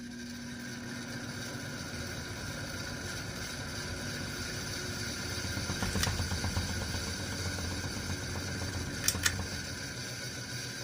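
Steady mechanical whirring and rumble from worn, bad bearings in a running machine, growing louder about halfway through. A click comes about six seconds in, and two sharp clicks come close together near the end.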